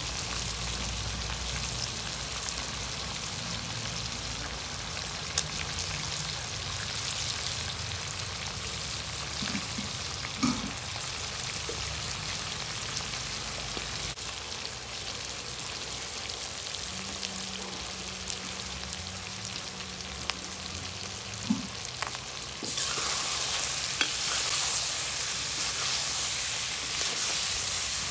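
Chicken pieces sizzling as they fry in a kadai (wok), a steady hiss with a few short clicks. About 23 seconds in the sizzle jumps suddenly louder, and near the end a ladle stirs the pieces.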